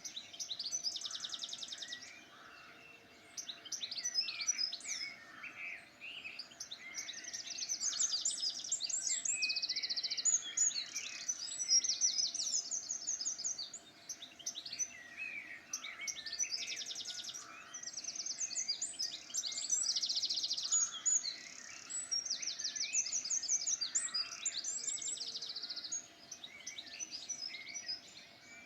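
Several songbirds singing at once, overlapping chirps and fast high trills with brief lulls, over a faint steady low hum.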